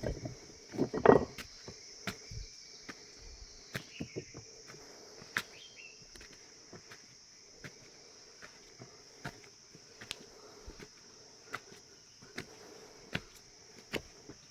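Steady high-pitched insect chorus, with scattered sharp clicks and a louder thump about a second in.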